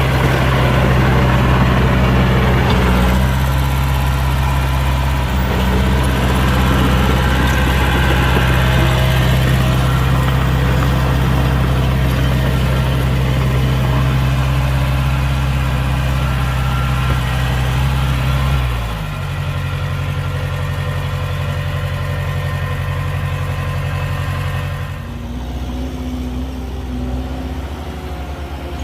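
Heavy diesel engine of earthmoving machinery running steadily, then dropping to a lower, quieter note about two-thirds of the way through, and quieter again near the end.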